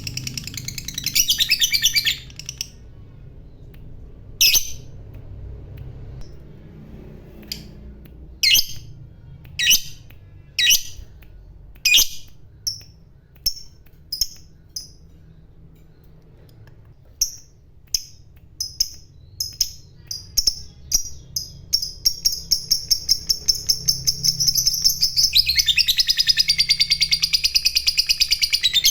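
Lovebird calling: a burst of chatter, then single sharp chirps that come faster and faster and run together into a long, unbroken rapid chattering trill over the last third, the long 'ngekek' that fanciers prize.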